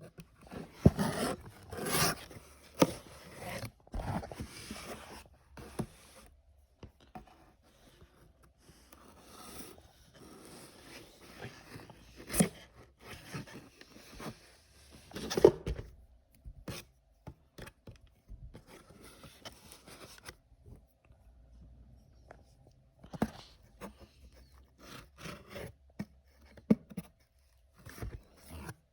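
Packaging being handled and opened by hand: irregular scraping, rubbing and rustling with sharp clicks and knocks, quieter for a few seconds about two-thirds of the way in.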